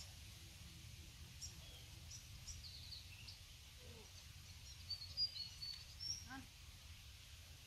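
Quiet outdoor ambience: birds calling with short, high chirps and twitters through the middle, over a faint steady low rumble.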